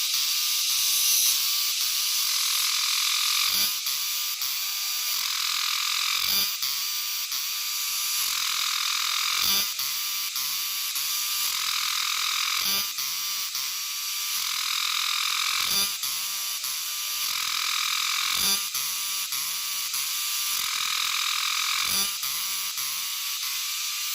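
A dense, steady chorus of calling animals, described as a strange sound and as the ones that sing in the morning. A short soft knock comes through about every three seconds.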